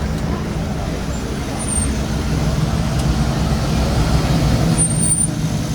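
Car engine running with a steady low rumble close by; it gets a little louder about a second and a half in.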